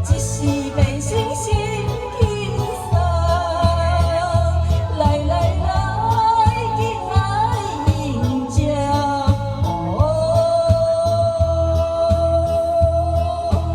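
A solo voice singing over a backing track with a steady beat, holding one long note from about ten seconds in.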